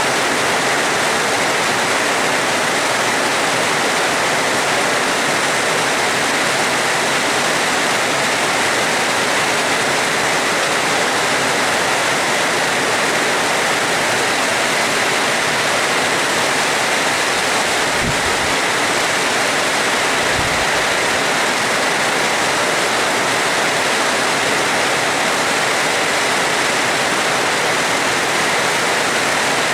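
Steady heavy rain, a dense even hiss with no let-up. Two brief low thuds come about 18 and 20 seconds in.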